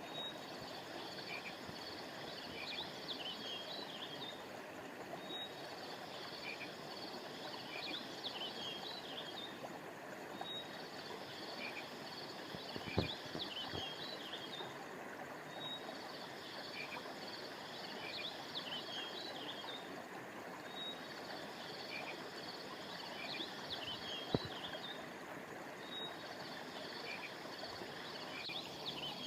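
Steady rushing of a flowing river, with high-pitched chirping and trilling of small creatures layered over it in a pattern that repeats about every five seconds. A short sharp knock sounds about halfway through and again near the end.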